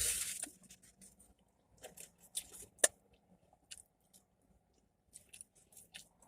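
Close-up chewing of a Philly cheesesteak: a bite at the start, then scattered short wet mouth clicks, one sharper near the middle.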